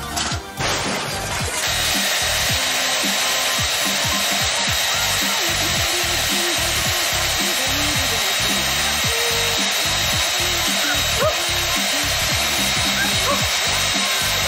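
Handheld hair dryer running steadily: an even rush of blown air with a thin, steady motor whine.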